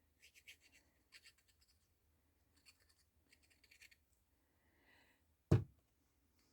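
Glue tape dispensed from a tape runner onto paper card: a series of short scratchy strokes, followed by a single loud thump near the end.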